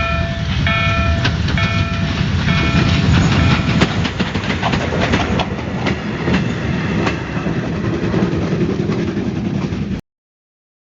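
Heritage train hauled by a TKt48 steam tank locomotive rolling past with a heavy rumble and sharp clacks of wheels over the rail joints. A level-crossing warning signal beeps about twice a second and stops about three seconds in.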